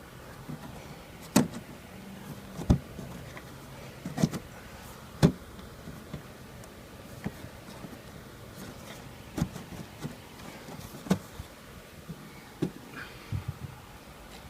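Irregular knocks and clicks of hardware being handled as the access panel of a rooftop RV air conditioner is refitted. The loudest knocks come in the first five seconds, with lighter ones later.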